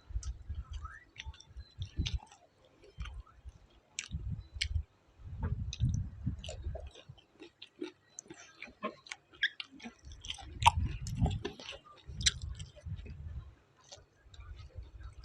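A person chewing food close to the microphone in irregular bouts, with wet low chewing sounds and many sharp crunching clicks.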